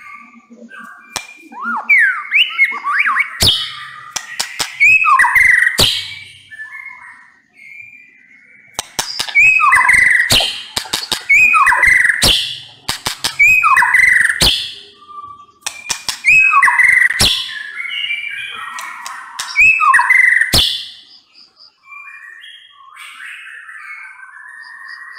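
White-rumped shama singing loudly: rapid whistled phrases with quick glides, broken by sharp clicking notes, in three bouts with short pauses between, then softer calls near the end.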